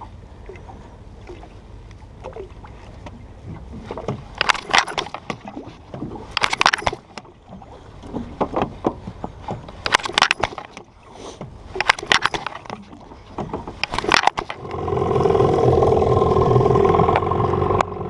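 A flooded outboard motor being cranked in several short, clattering attempts, then catching about 14 seconds in and running steadily.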